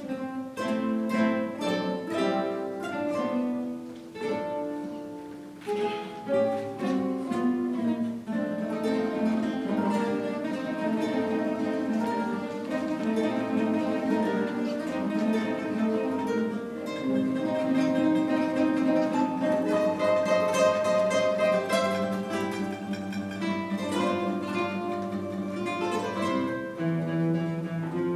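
Guitar ensemble playing a piece together, many plucked guitars in parts; it starts with separate plucked chords and grows fuller and louder about eight seconds in.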